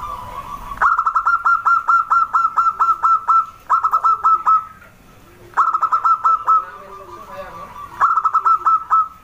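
Birds calling: repeated bursts of rapid, sharp, falling notes, about seven a second, with softer low cooing notes underneath.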